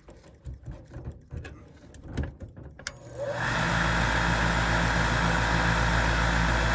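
A few scattered clicks and knocks, then about three and a half seconds in the York gas furnace's draft inducer motor starts and runs loudly with a steady hum. It is a worn inducer that sounds like it's hitting something and is due for replacement.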